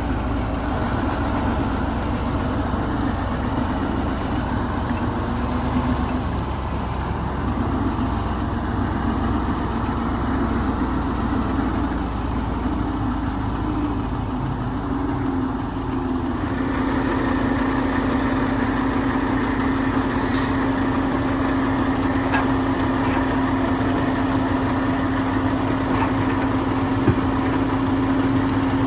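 Heavy diesel earthmoving machinery engine running steadily. About halfway through it settles into an even, pitched hum, and a brief hiss comes about two-thirds of the way in.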